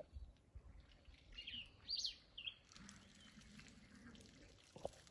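A bird chirping: a short run of quick, high calls about two seconds in, over faint outdoor background.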